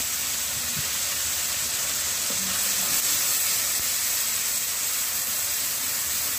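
Onion paste frying in hot mustard oil in a pan, a steady sizzle.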